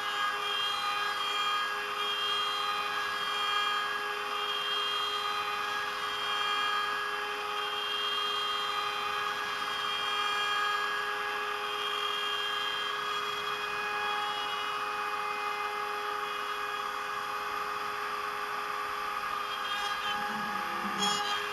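CNC router spindle whining steadily as a 3.175 mm cutter mills 18 mm beech plywood, the pitch of the cut shifting a little as the tool moves. A brief clatter about a second before the end.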